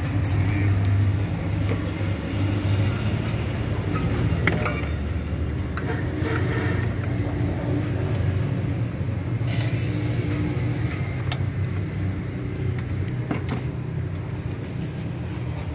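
Honda Civic engine idling steadily with the hood open, running after its water pump replacement. A few light clicks and rattles sit on top.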